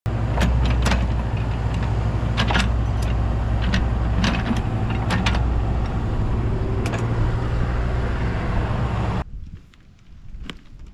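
Diesel engine of a Cat excavator running steadily, with scattered sharp metal clanks. It cuts off abruptly about nine seconds in, leaving a quiet background with a few faint clicks.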